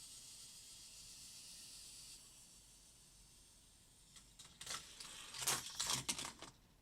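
Hot Wheels die-cast Lamborghini Huracan rolling on plastic track: a faint steady hiss for about two seconds, then a run of light clicks and clatters from about four seconds in.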